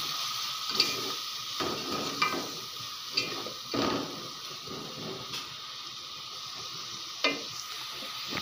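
Onion and spice masala sizzling in hot ghee in an aluminium pot, moistened with a spoonful of water so the spices do not burn. A slotted spatula stirs it, scraping and clicking against the pot several times at irregular intervals.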